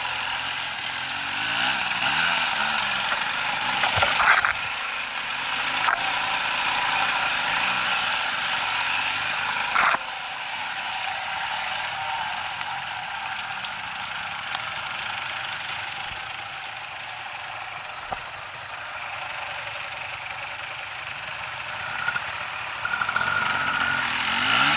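Off-road motorcycle engines running and revving up and down, louder near the start and again near the end. A couple of sharp knocks come about four seconds in and again around ten seconds.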